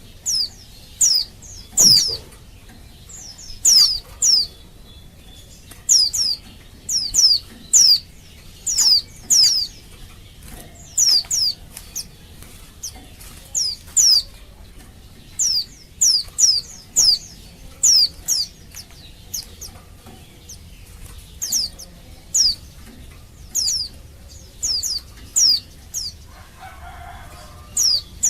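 Female pleci (white-eye) calling: short, high chirps, each dropping sharply in pitch, in clusters of one to three about once a second. It is a female's call to males.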